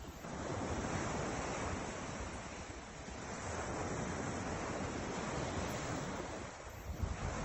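Ocean surf washing onto the shore, rising and falling in slow surges about every three seconds.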